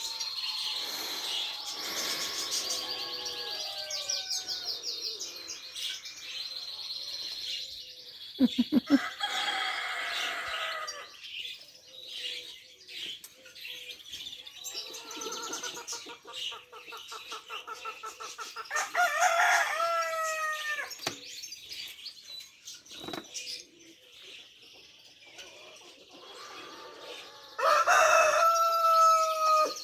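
A rooster crowing twice, once about two-thirds of the way in and again, loudest, near the end, over small birds chirping. A brief flurry of wing flaps comes about a third of the way in.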